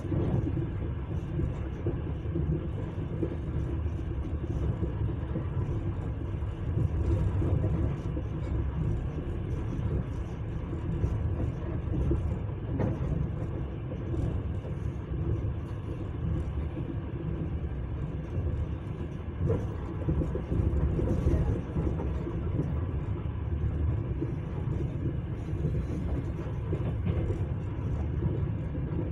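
Passenger train running along the track: a steady low rumble of wheels on rails, with a couple of faint knocks in the middle.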